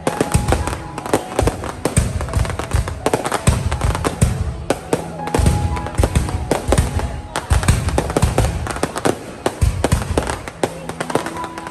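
A fireworks display: shells bursting in quick, irregular succession, several loud bangs a second with crackle between them, continuing throughout. Music plays alongside.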